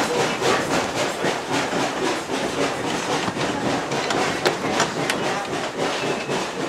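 Steady rattle and clatter of a wooden passenger car rolling over the track behind a 1916 2-6-2 Prairie-type steam locomotive, with two sharp clicks a little past halfway.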